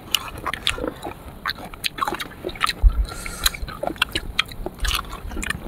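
Person biting and chewing sour fruit close to the microphone: irregular crisp crunches and wet mouth clicks.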